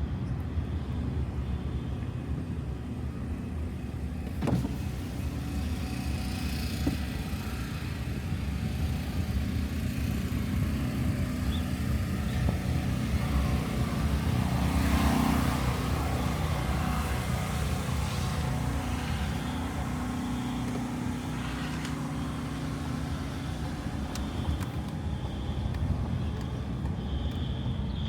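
A car's engine and road noise: a steady low hum throughout, with one click about four and a half seconds in and a louder swell around the middle.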